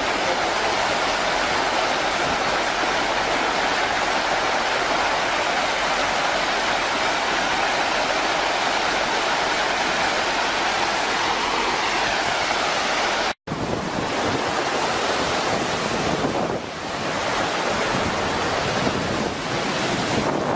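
Steady rush of fast-flowing floodwater. About two-thirds of the way through, the sound cuts out for an instant, and the rushing then carries on more unevenly, with wind buffeting the microphone.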